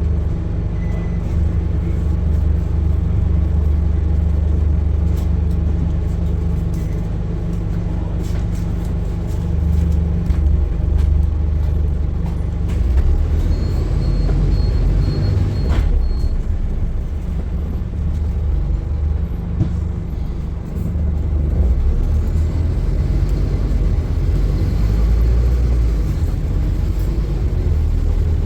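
Scania N230UD double-decker bus's five-cylinder diesel engine running on the road, its drone rising and falling as the bus changes speed and gear. A short run of high beeps sounds about halfway through.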